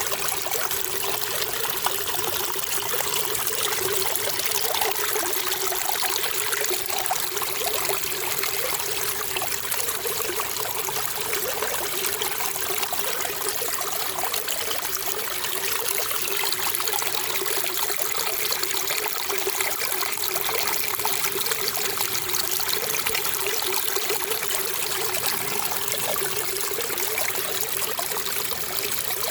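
Running water trickling steadily, a continuous even splashing flow.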